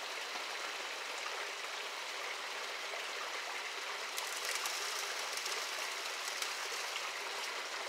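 Water running steadily down a highbanker sluice box over Gold Hog mats, with faint light spattering about halfway through.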